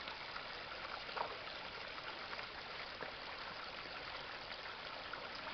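Mountain stream flowing steadily, an even rush of running water.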